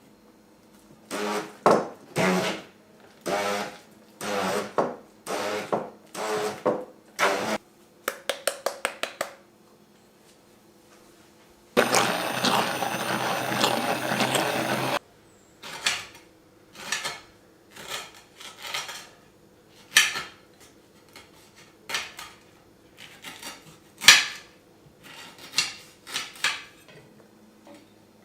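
Kitchen work sounds. First comes a run of scraping, clinking strokes with some ringing from utensils against dishes, then a quick burst of about eight clicks. About twelve seconds in there are roughly three seconds of steady rushing noise like a small blender, followed by single knocks about once a second.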